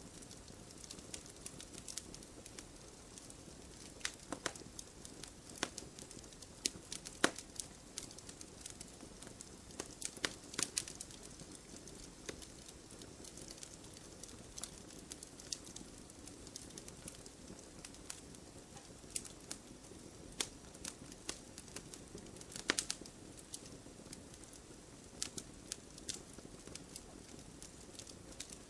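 Wood fire crackling: irregular sharp pops and snaps, a few a second at their busiest, over the low steady rush of the burning flames.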